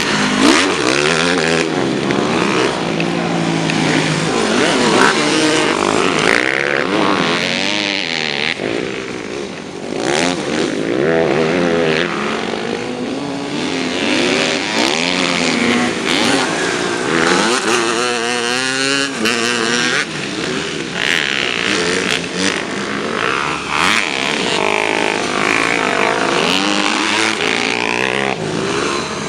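Several motocross bikes racing, their engines revving up and falling back over and over, overlapping one another.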